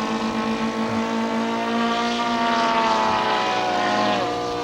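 Radio-controlled model seaplane's propeller engine in flight through a loop, its note rising a little and then falling away, with a sharper drop near the end.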